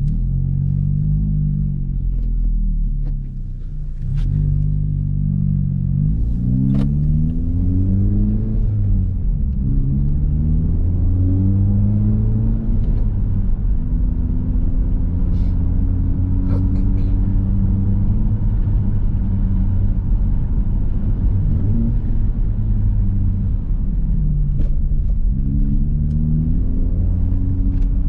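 Honda Civic Type R's turbocharged 2.0-litre four-cylinder heard through a muffler- and resonator-deleted exhaust while driving. The revs rise and drop back several times as it pulls through the gears, then settle into a steady drone before climbing again near the end. A few sharp clicks are heard along the way.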